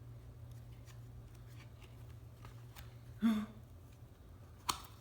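Quiet room with a steady low hum, broken by one short voice sound about three seconds in and a sharp click near the end.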